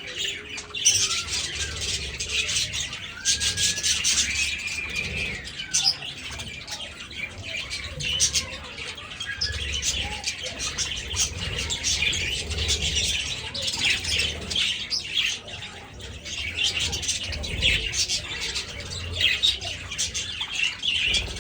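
A flock of budgerigars chattering and chirping without pause, many birds calling over one another in a dense, busy twitter.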